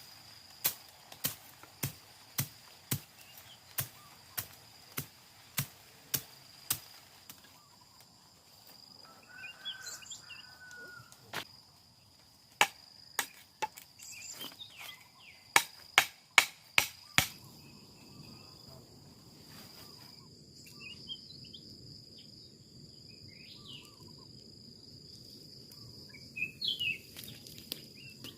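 Repeated sharp chopping strikes, about two a second for several seconds, then in irregular clusters, over a steady high drone of insects. Partway through, a low steady rush comes in.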